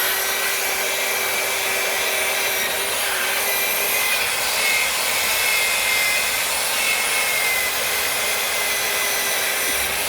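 A steady, unbroken hiss with a faint steady hum under it, like air blowing or a small motor running.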